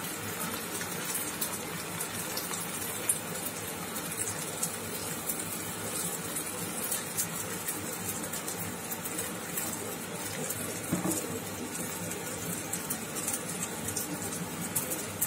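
A thick curry paste sizzling in a hot non-stick pan of butter, ginger-garlic paste and green chillies as it is emptied in from a steel bowl: a steady hiss with many small crackles.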